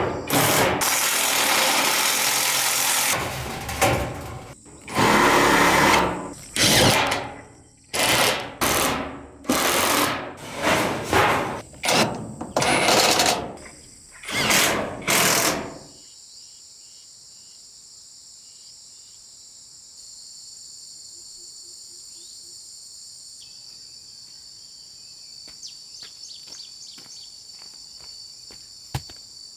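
Tool work at a building site: a run of loud, noisy bursts, one about two seconds long and then many short strokes, that stops about sixteen seconds in. After that, insects chirp steadily.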